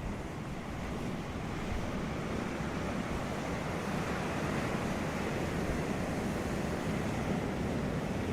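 Ocean waves breaking and washing on a beach, a steady rushing surf that swells slightly over the first couple of seconds, with some wind buffeting the microphone.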